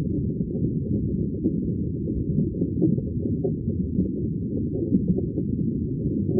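Continuous underwater bubbling: a dense, steady stream of bubbles heard as a deep, muffled burble with nothing high in it.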